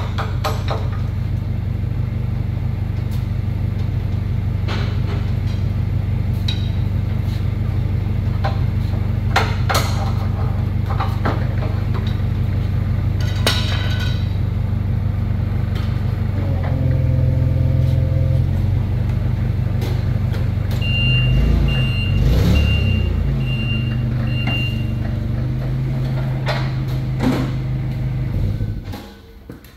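CNC plasma cutter, a Hypertherm Powermax 85, running a cut through 3/4-inch steel plate: a loud steady drone with scattered clicks. Five short high beeps sound about 21 seconds in, and the machine shuts off near the end.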